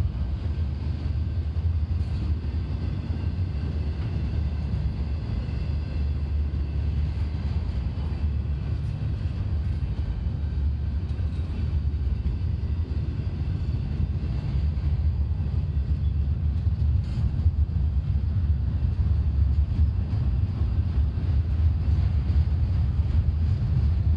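Intermodal freight cars rolling past on steel rails: a steady low rumble with occasional sharp clicks of wheels over rail joints, growing slightly louder near the end.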